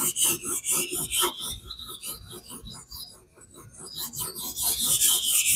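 A steel knife blade being stroked back and forth on a King whetstone in a guided fixed-angle sharpener, a rapid rasping scrape at about three strokes a second. The strokes pause briefly in the middle and pick up again about four seconds in.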